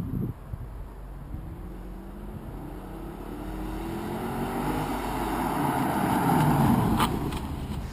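A performance car accelerating hard, its engine note rising steadily in pitch and growing louder as it comes closer, then easing off. A sharp crack sounds about seven seconds in.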